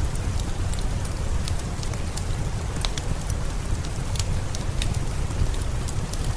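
Steady rain over a deep low rumble, with scattered sharp crackles and pops of a wood fire burning in a fireplace.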